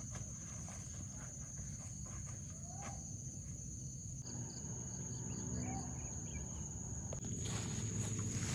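Steady high-pitched insect trill, typical of crickets or cicadas in forest, over outdoor ambience with a few short chirps and soft footsteps.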